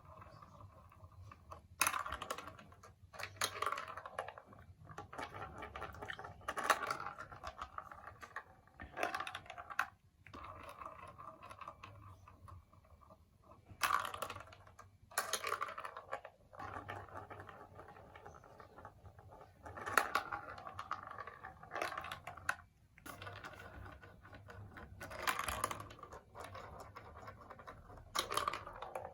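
Marbles rolling and rattling along a plastic building-block marble run, with sharp clacks every few seconds as they drop or strike the plastic pieces.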